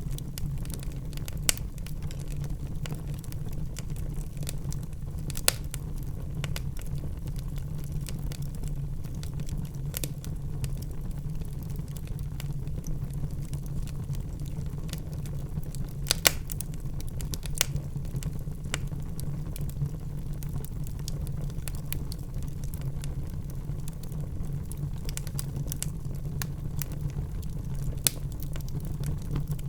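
Wood fire burning in a fireplace: a steady low rumble of flames with scattered sharp crackles and pops. A few louder pops stand out, two of them in quick succession near the middle.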